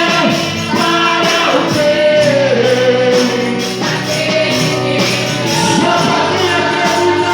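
Live gospel worship music: band accompaniment with a steady beat and a singing voice holding and bending long notes.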